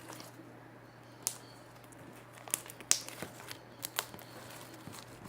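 Slime being handled, giving scattered sharp clicks and pops, about half a dozen over a few seconds, above a steady low hum.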